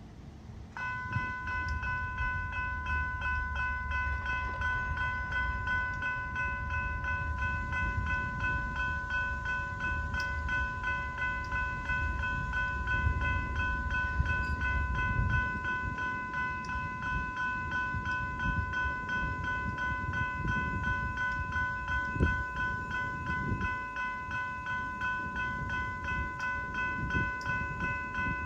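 A railroad crossing bell starts about a second in and rings on in fast, even strokes. Under it runs the low rumble of the approaching and passing Amtrak train, heaviest in the first half.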